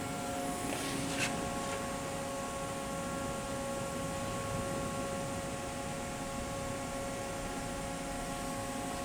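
Steady electrical hum and hiss with several faint, steady whining tones from a powered-up CNC vertical machining center and shop; a single light click about a second in.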